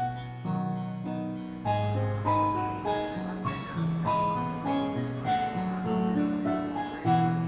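Instrumental background music: a keyboard melody of plucked, quickly fading notes over a moving bass line.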